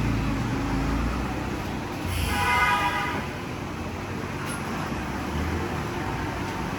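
Road traffic rumbling past steadily, with a vehicle horn sounding once, briefly, about two seconds in.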